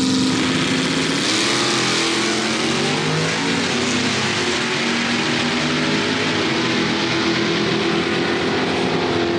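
Two drag-racing cars, a classic Chevrolet Chevelle and a Pontiac Firebird, holding revs on the start line and then launching hard. About a second in, the engine note jumps and climbs as they accelerate away down the strip.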